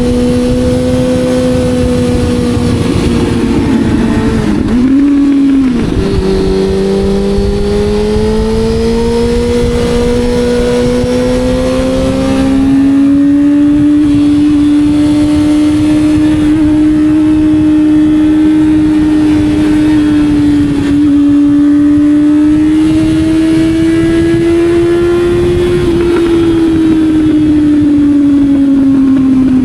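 Sport motorcycle engine pulling at speed. The engine note drops about five seconds in, climbs steadily, holds, and falls off near the end.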